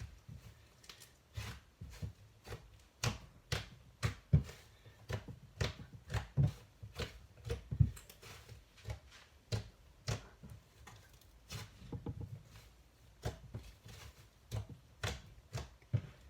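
Butter slime being squished and poked by hand: irregular sticky clicks and pops, roughly two a second, with soft thuds under them.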